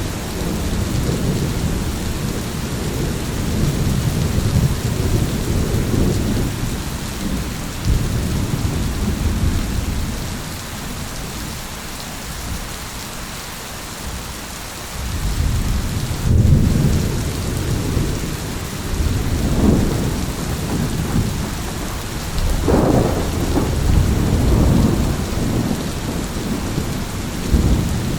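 Steady rain falling with deep, rolling thunder rumbling through it. The rumble eases for a few seconds near the middle, then swells again.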